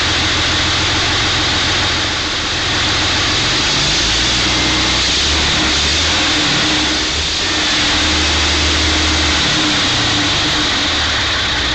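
Deutz A12L614 air-cooled V12 diesel running loudly: a dense hissing rush over a deep engine note that shifts in pitch, easing off briefly twice.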